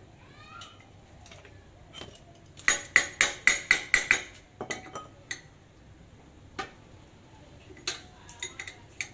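Metal parts and hand tools clinking and tapping against each other, with a quick run of about eight sharp, ringing metallic strikes a few seconds in and scattered single clicks before and after, as the pallet truck's hydraulic pump is worked on.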